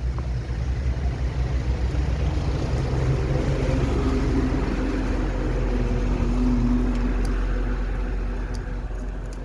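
A motor running steadily with a low hum, swelling a little through the middle and easing off near the end.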